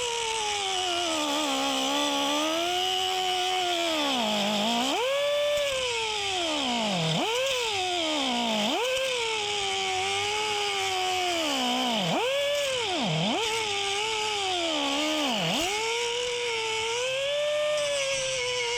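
A high-speed cutoff wheel tool whining as it slices protruding trim studs off the steel body panel of a car. Its pitch drops sharply about six times as the wheel bites under load and climbs back each time it eases off.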